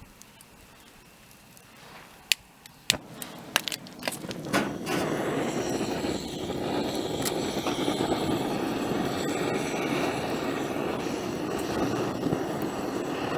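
Campfire: a few sharp pops, then from about four seconds in a loud, steady rushing crackle as the fire burns up.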